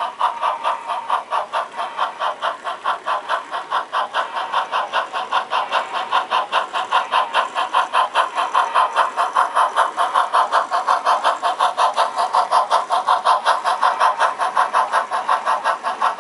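HO scale model steam locomotive's sound chuffing steadily at about five chuffs a second as the engine climbs a grade with part of its train, the beat getting slightly louder about six seconds in.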